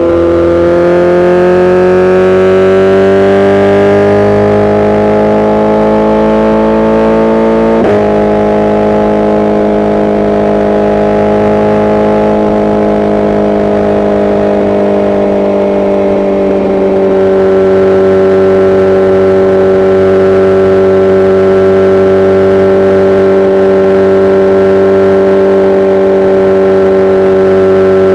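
BMW S1000RR inline-four engine running on the road with its tune and exhaust sound unlocked. The revs climb gently for several seconds, then change abruptly with a quick click about a third of the way in, like a gear change. After that it holds steady revs, easing off a little past halfway.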